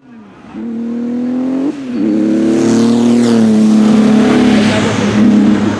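Historic racing car accelerating hard: the engine note climbs, drops sharply with an upshift just under two seconds in, climbs again, then falls away slowly as the car passes by.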